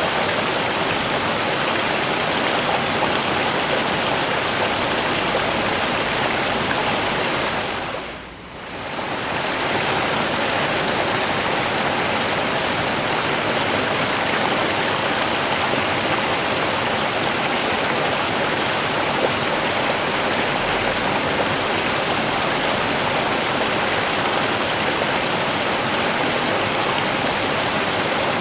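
River water flowing in a steady, even rush. About eight seconds in it fades down briefly and comes back.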